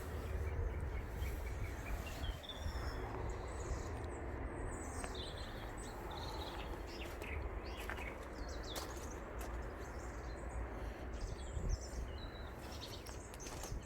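Wild birds singing: a scatter of short chirps and whistles over a steady low rumble.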